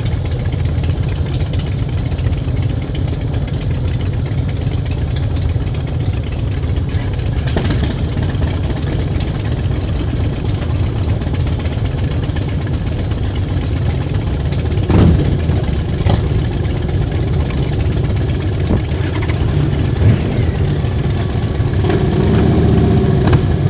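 Motorcycle engine running steadily with a low, pulsing rumble, with a couple of brief knocks about two-thirds of the way in.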